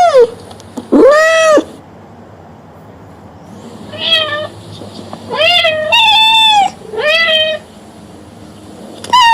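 Cat meowing: a series of short, rising-then-falling meows, each about half a second long. One comes about a second in, and a run of four follows from about four seconds in.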